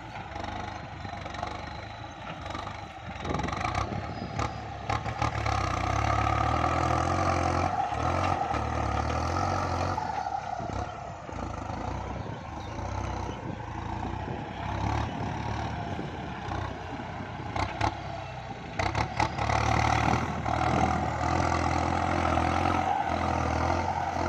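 Kubota MU5702 tractor's diesel engine working under load while ploughing through a paddy rutted by combine-harvester tracks, with some clattering. It grows louder a few seconds in, eases through the middle and rises again near the end.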